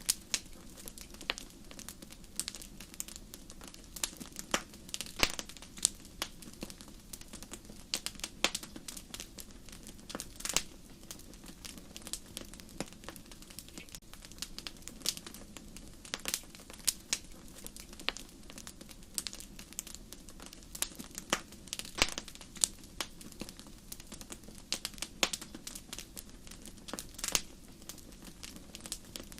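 Wood fire in a fireplace crackling, with irregular sharp pops and snaps over a steady low rustle of flames.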